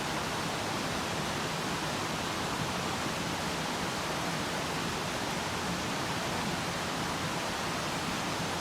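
Steady rush of flowing water from a mountain stream, an even hiss-like roar with no breaks.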